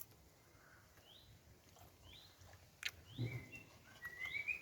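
Woodland birds calling: a short rising chirp repeated about once a second, joined near the end by a longer warbling call. A sharp click is heard about three seconds in.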